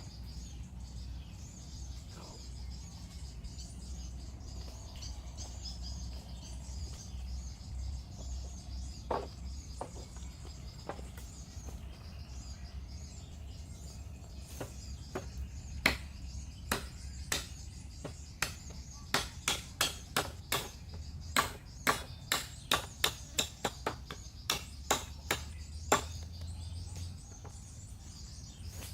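Sharp knocks, a few scattered at first, then a quick series of about two a second in the second half, over birds chirping and a low steady rumble.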